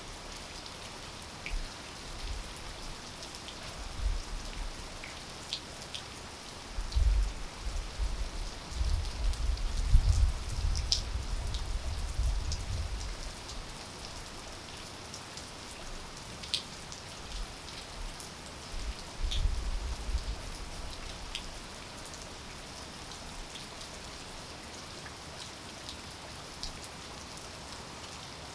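Steady rainfall with scattered individual drops ticking close by. A low rumble swells in several times, loudest about seven to thirteen seconds in.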